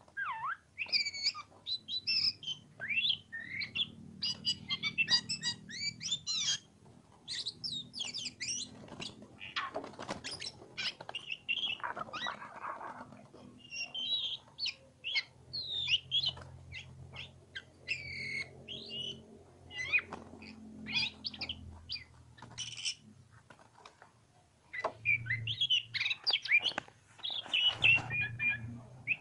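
Oriental magpie-robin (kacer) singing a loud, varied song of rapid chirps and whistled phrases, with a brief pause a little over three quarters of the way through.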